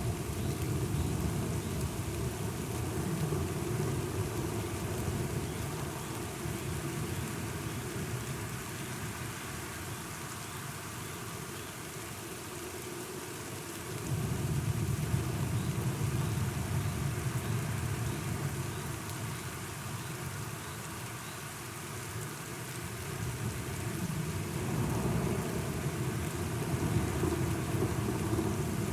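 Steady rain with low rolling thunder: a deep rumble swells up suddenly about halfway through, fades, and builds again near the end.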